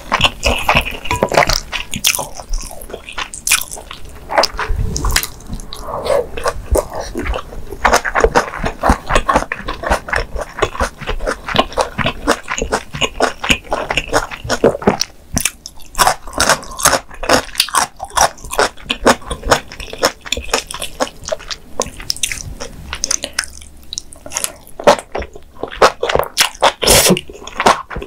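Close-miked chewing of a mouthful of spicy mala xiang guo with Chinese glass noodles: a quick, uneven run of mouth clicks and smacks.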